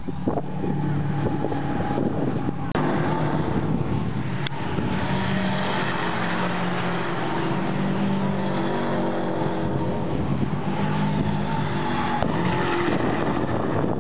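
Saker race cars' turbocharged Subaru flat-four engines running hard as cars pass on the track, one after another, their pitch rising and falling. Three short sharp cracks cut through.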